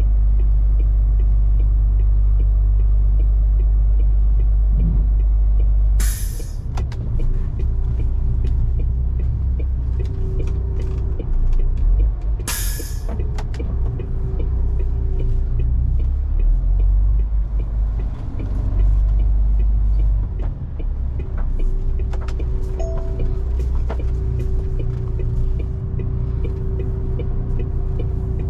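MAN TGS 470 hp truck's diesel engine running with a steady low drone. Two short, loud hisses of air come about six seconds apart, the first as the engine note changes.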